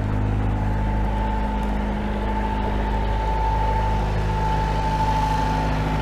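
Perkins 4-108 four-cylinder marine diesel running steadily in gear, turning the propeller so the engine is under load, with a steady high whine over the engine note.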